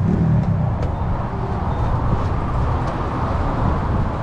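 Off-road engines idling with a steady low rumble, and a few faint clicks over it.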